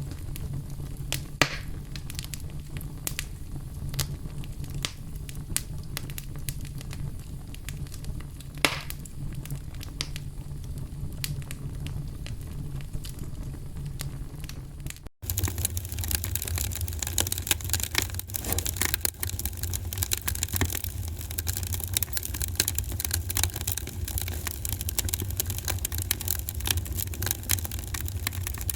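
Wood fire crackling in a fireplace: scattered pops and snaps over a steady low rumble. About halfway through the sound drops out for an instant, then resumes with denser crackling and a heavier rumble.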